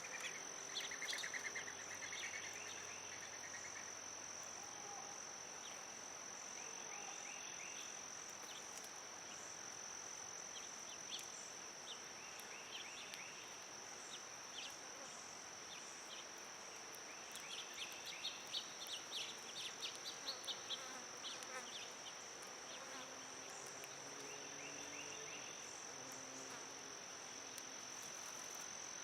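Red-winged blackbirds calling in short bursts of rapid notes and trills, several times, over a steady high-pitched insect drone.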